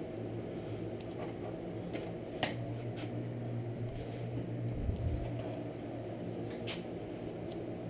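Steady low background hum, with a few faint clicks and a soft knock as the pull-starter parts are handled.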